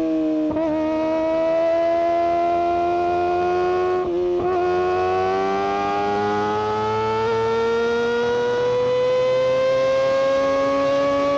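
Kawasaki Ninja ZX-25R's 250 cc inline-four running at high revs under load, its exhaust note climbing slowly and steadily in pitch. It wavers briefly about half a second in and again about four seconds in.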